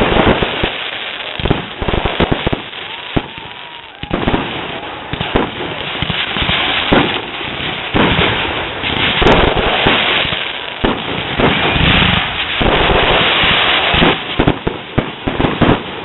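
Fireworks display: repeated sharp bangs of bursting shells over a steady crackle, with a quick run of bangs near the end.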